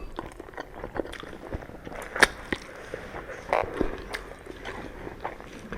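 Close-miked chewing and eating of ramen noodles, with irregular small wet clicks and smacks, one louder about two seconds in.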